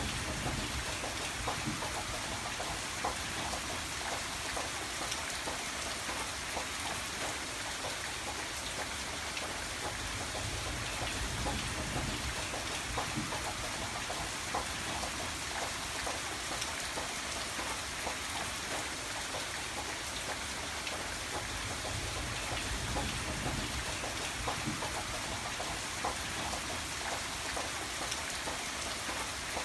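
Steady rain falling, with many separate drops ticking throughout.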